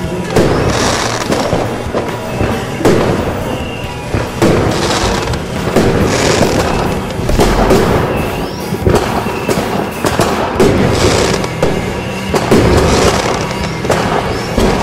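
Aerial fireworks bursting and crackling, a new burst every second or two, over background music.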